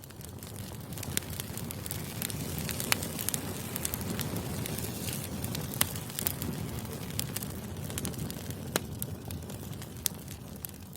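Bonfire burning: a steady low rush of flame with frequent sharp, irregular crackles and pops.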